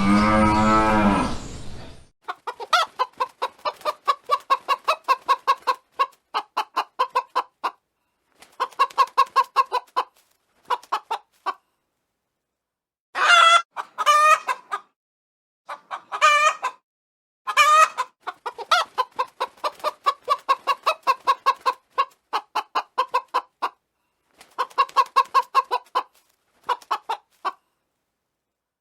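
A cow's moo tails off in the first two seconds, then chickens cluck in rapid runs of short notes, broken a few times by louder, longer calls.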